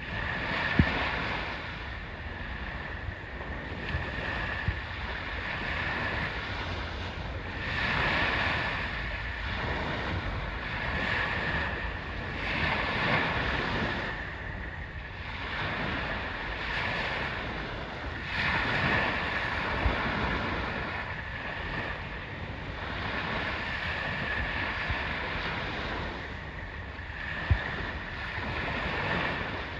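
Surf washing on the shore, swelling and ebbing every few seconds, with wind buffeting the microphone. Two brief sharp knocks come about a second in and near the end.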